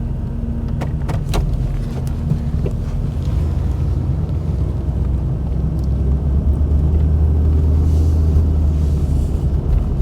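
Pickup truck driving slowly, a steady low engine and road rumble heard from inside the cab, growing heavier in the second half, with a few sharp clicks about a second in.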